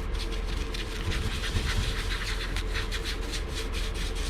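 Quick scratchy rubbing strokes, about three or four a second, as a heater part is dusted off by hand, over a steady low hum.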